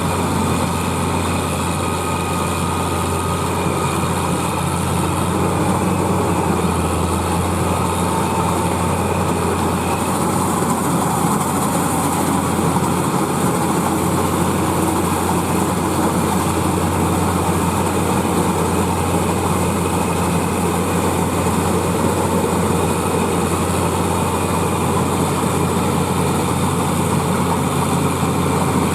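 Claas Crop Tiger 30 combine harvester's diesel engine running at a steady, unchanging drone.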